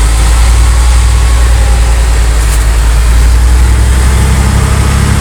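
Heavy truck's diesel engine running steadily, a deep, even sound with no change in speed.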